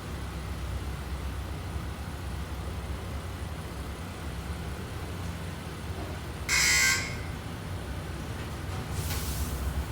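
Car engine running with a steady low rumble. About six and a half seconds in comes a loud half-second buzzing, hissing burst, and a fainter hiss starts near the end.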